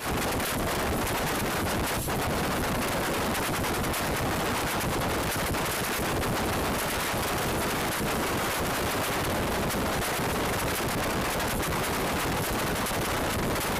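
Indian express train coach running at speed, heard from its open door: a dense, rapid clatter of wheels and coach over the track under steady rushing wind.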